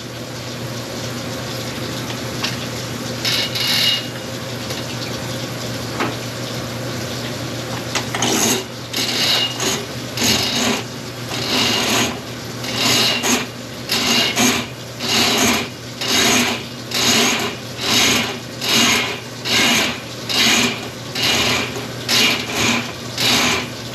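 Sectional drain-cleaning machine running with its cable rasping in the drain line, the cable most likely being worked back out of the cleared main line. Steady scraping at first; from about eight seconds in it turns into regular rasping strokes a little more than once a second.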